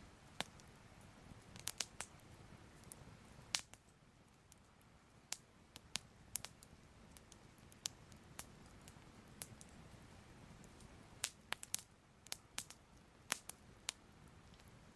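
Soft crackling fire: irregular sharp pops and snaps, several close together at times, over a faint low hiss.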